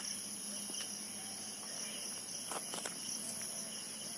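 Steady, unbroken high-pitched chorus of insects such as crickets, with a few faint ticks partway through.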